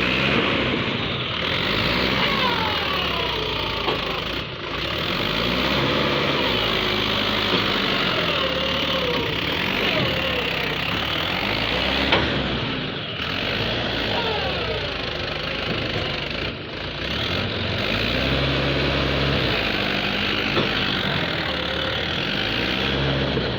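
A tractor engine revving up and down again and again under load, as the tractor tries to pull itself free where it is stuck.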